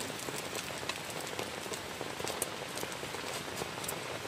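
Heavy rain pattering on the tent, a dense steady hiss of noise scattered with sharp drop ticks.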